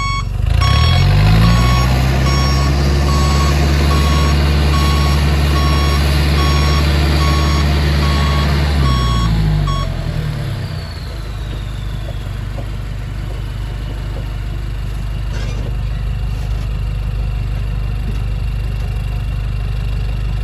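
Hino Mega six-wheel truck's diesel engine revving hard and held high for about nine seconds while its reversing beeper sounds, as the truck struggles to back out of deep mud. The engine then drops back to idle with a faint falling whistle, and the beeping stops.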